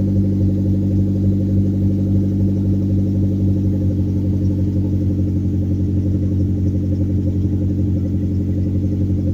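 Turbocharged 2002 Mazda Protege's four-cylinder engine idling steadily just after a cold start, through a straight-piped exhaust with a muffler delete, giving a loud, even idle.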